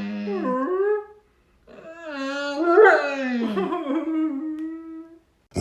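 A dog howling: two long wavering howls with a short break about a second in, the second one rising and falling before settling on a held note.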